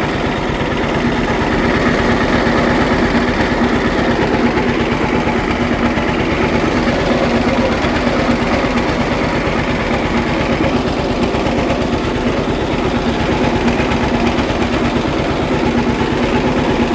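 Model B tractor engine running steadily with an even firing beat. The engine has just been revived after sitting and is still due a tune-up.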